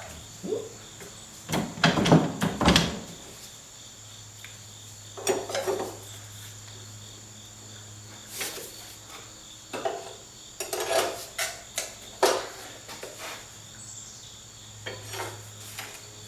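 Metal tools and parts clanking and knocking in irregular clusters, the loudest clatter about two seconds in, as a heavy steel car suspension member is worked on and propped up. A steady low hum and faint high steady tones run underneath.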